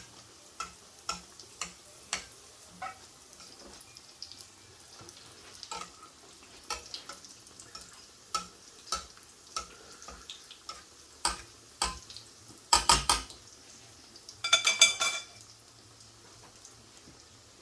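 Breaded chicken shallow-frying in oil in a frying pan: a faint sizzle with frequent sharp pops and ticks as oil is spooned over the top. About 13 seconds in comes a quick run of loud clicks, and a second later a metal utensil clatters against the pan with a brief ringing clank.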